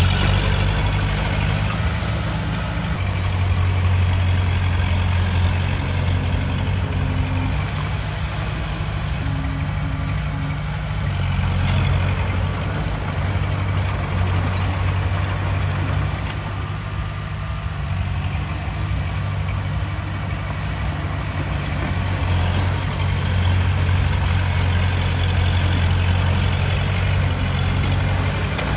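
Heavy diesel engine of earthmoving machinery running continuously, a low drone that swells and eases every few seconds as it works.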